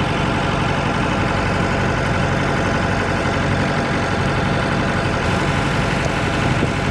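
An engine aboard a small fishing boat running steadily at an even speed, a constant drone.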